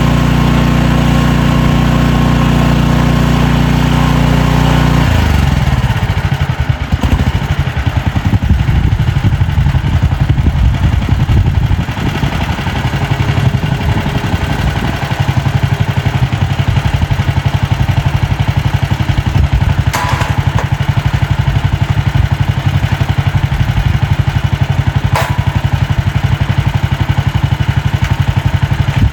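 AGT MX-MRT14 mini skid steer's engine running while it works a mulch pile. It holds a steady note for about five seconds, then turns uneven and fluctuating as the machine works, with two faint clicks later on.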